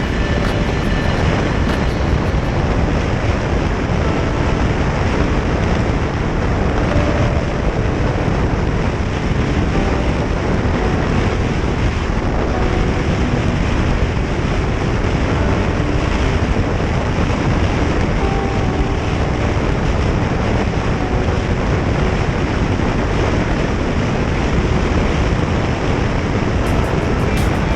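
Steady rush of wind on the microphone over the motorcycle's engine and road noise while riding at speed.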